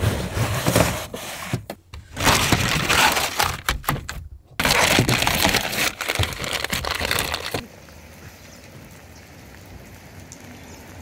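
Heavy rain pelting the motorhome's roof and windshield, heard from inside the cab as a loud, dense crackling patter with two brief gaps. About seven and a half seconds in it switches to a much quieter steady hiss of rain outside.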